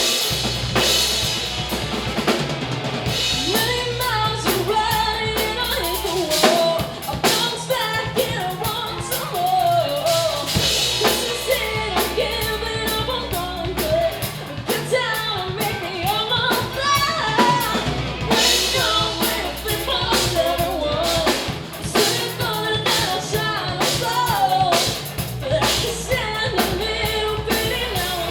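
A live rock band playing: drum kit with bass drum and snare, a steady bass line, and a melody carried by a singing voice.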